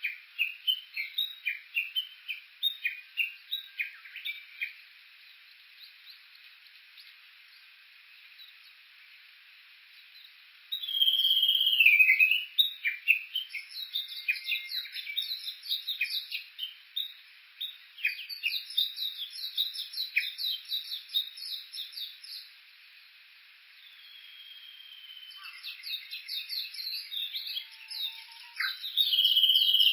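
Japanese bush warbler (uguisu) calling: quick repeated short notes at first, a lull, then phrases that open on a long whistle and run into rapid strings of notes.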